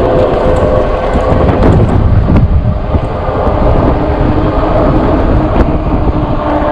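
Wind buffeting the microphone of a moving e-bike rider: a loud, steady low rumble, with faint steady tones under it.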